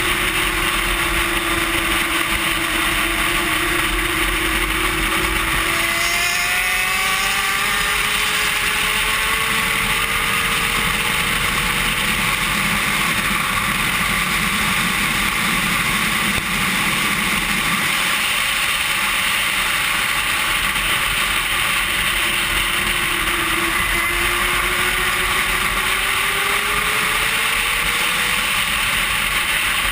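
Racing sport bike's engine running hard at speed, its pitch sliding down and climbing back up twice as it brakes and accelerates through the corners, under heavy wind rush.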